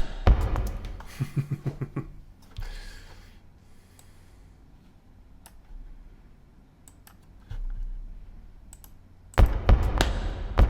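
A rhythmic loop of sampled found-object hits playing back, stopping about two seconds in; then scattered computer mouse and keyboard clicks with a few low thumps, until the loop starts again near the end.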